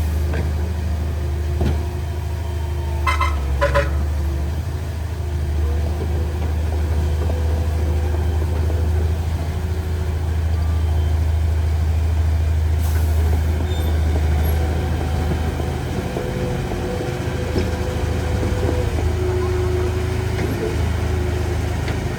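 Heavy diesel engine of earth-moving machinery running steadily with a deep drone. A brief high squeal comes about three seconds in.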